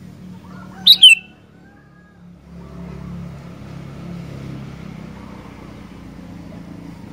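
Sooty-headed bulbul (kutilang) giving one loud, short two-note call about a second in, falling in pitch. Under it is a low, steady background rumble.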